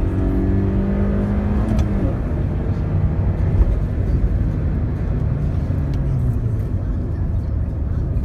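Toyota Corolla Altis 1.8-litre petrol engine pulling hard under acceleration, its note climbing slightly. About two seconds in the note breaks off and drops, then the engine runs at a lower, steadier note under heavy road and wind rumble.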